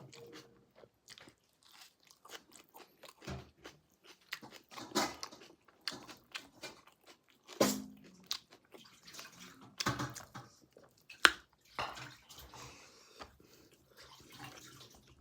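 A person biting and chewing pork close to the microphone: irregular sharp mouth clicks and short wet bursts, the loudest a sharp snap about eleven seconds in.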